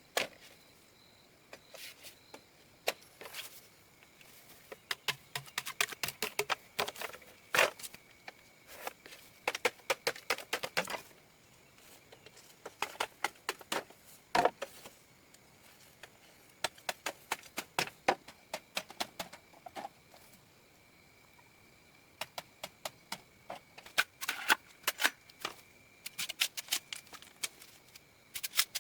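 Irregular bursts of rapid, light clicks and crackles that come and go in clusters, with a faint steady high tone behind them.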